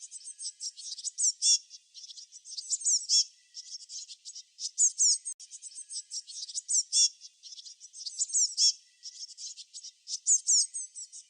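Small songbirds chirping busily: a dense run of short, high notes, many of them quick downward sweeps, with louder bursts of calls every second or two.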